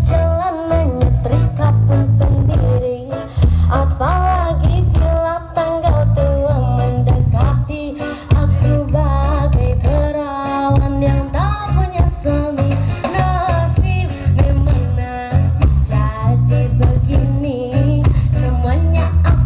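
A song with singing, guitar and a heavy bass line, played loud through a demo PA sound system with subwoofers.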